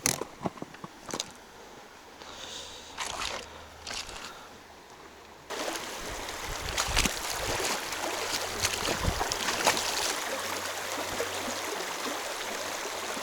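A few light clicks and rustles, then from about five seconds in the steady rush of a fast mountain river, which starts abruptly.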